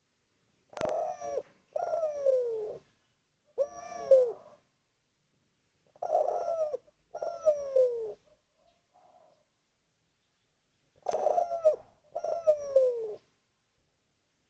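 Spotted dove (derkuku) cooing in three phrases of two or three short notes, the last note of each phrase gliding downward, with pauses of a second or two between phrases. A sharp click comes just before the first coo.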